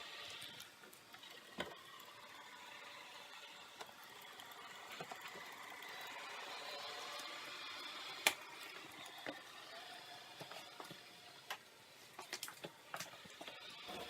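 ILIFE A4 robot vacuum running with a steady motor-and-brush whine, broken by scattered clicks and knocks. The sharpest knock comes about eight seconds in, and a quick cluster of clicks follows near the end.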